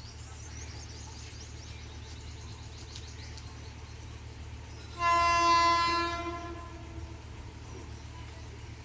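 Indian Railways WAG-12B electric locomotive sounding one long single-note air-horn blast about five seconds in, held for about a second and a half and fading away, over a low steady rumble.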